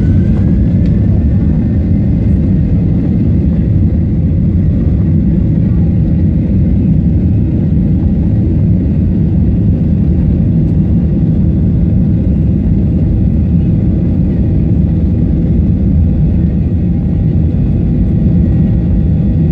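Boeing 737-800 jet engines running at take-off power: a loud, steady low rumble. A faint rising whine levels off about a second in.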